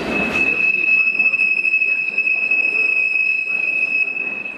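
Freight train wagons rolling past over the rails, their wheels squealing in one high, steady tone above the rumble of the train; the squeal stops near the end.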